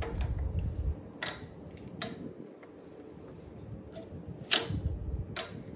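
Tools and small parts being handled during scooter disassembly: a few separate clicks and knocks, the sharpest about four and a half seconds in, with low handling rumble in the first second.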